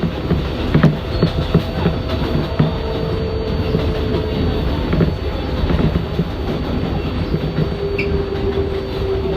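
R188 New York City subway car running at speed, heard from inside: a steady rumble with the wheels clattering over rail joints. A faint, thin wheel squeal comes in midway and again near the end.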